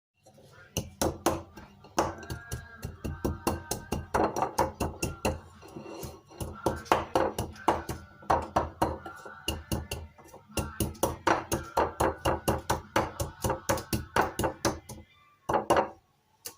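Rapid series of sharp knocks, about three or four a second, with short pauses, over soft background music.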